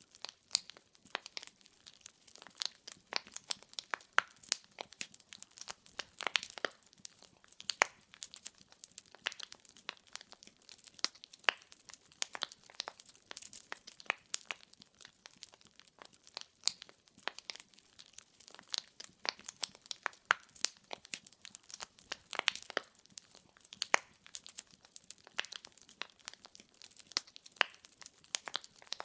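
Firewood burning in a fireplace, crackling and popping with many irregular sharp snaps, several a second.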